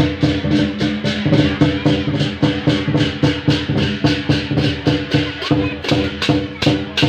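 Live barongan accompaniment music: a percussion ensemble of drums and tuned gongs playing a fast, even beat of about five strokes a second over steady ringing tones.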